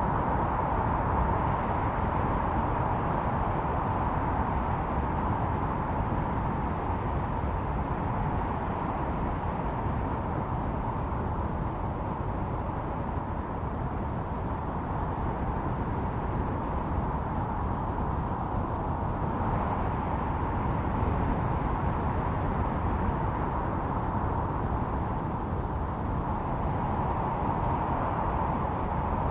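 Snowstorm wind blowing steadily: a low rushing with a howling band at a middle pitch that swells and eases every few seconds.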